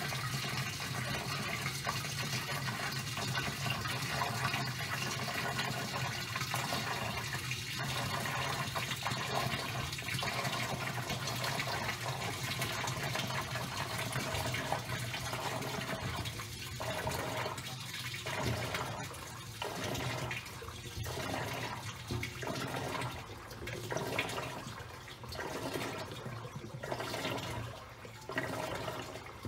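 Top-loading washing machine washing a load of towels: water churning and sloshing in the drum over a steady motor hum. About halfway through, the sloshing starts coming in surges every second or two.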